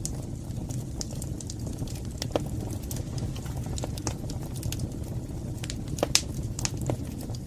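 Wood fire burning in a fireplace: a steady low rumble of the flames with scattered sharp crackles and pops, the loudest about six seconds in.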